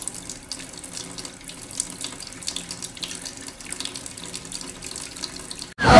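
Steady rain falling, an even wash of water noise flecked with small ticks of drops.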